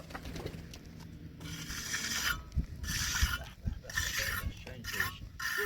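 A trowel scraping cement across a wall, in about five rasping strokes that start about a second and a half in.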